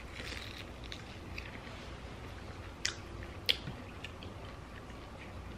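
Close-up chewing and biting of a crispy fried chicken wing: soft, scattered crunches, with two sharp clicks about three and three and a half seconds in.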